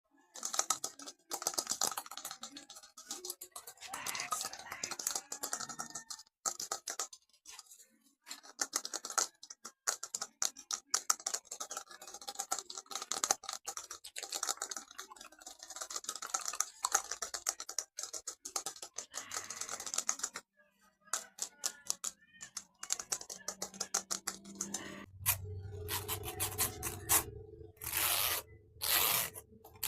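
Rapid, dense clicking and finger tapping on a small object, like typing, for about twenty seconds, thinning out after that. About 25 seconds in it turns to longer scratchy strokes over a low hum.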